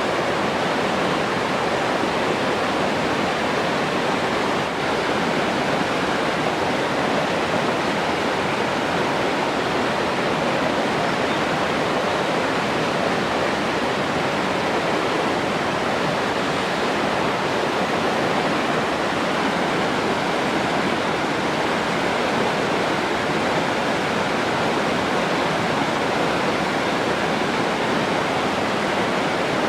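Steady rushing water, a continuous even wash with no breaks or changes.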